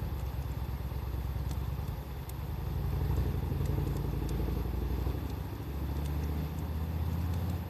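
Wood fire crackling with scattered small pops, under a loud, uneven low rumble.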